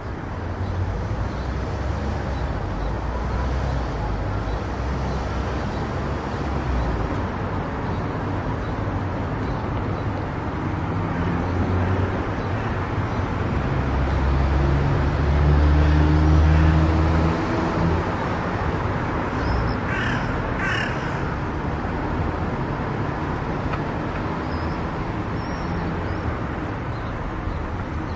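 Car driving at highway speed: steady road and tyre noise, with a deeper rumble that swells and fades about halfway through. Two short high calls cut through about two-thirds of the way in.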